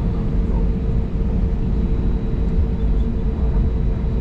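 Steady low rumble in the cabin of an Airbus A320neo taxiing: its CFM LEAP-1A engines running at taxi power as the aircraft rolls along the taxiway, with a constant mid-pitched hum over the rumble.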